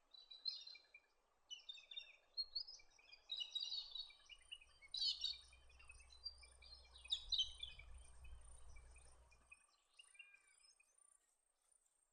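Several small birds chirping and calling over one another, thinning out after about eight seconds. Under them is a thin, high, pulsing trill, and a low rumble that stops about nine and a half seconds in.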